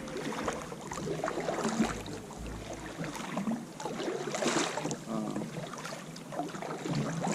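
Water splashing and sloshing around a kayak, with irregular knocks and clicks of the paddle and gear against the hull, and a louder swish about four and a half seconds in.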